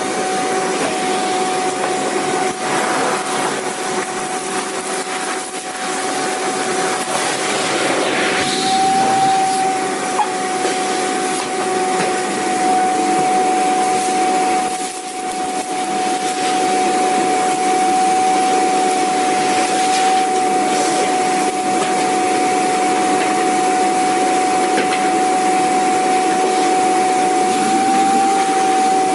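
Vacuum cleaner running continuously: a steady motor whine at one pitch over a broad rushing air noise, with a brief dip in loudness about halfway through.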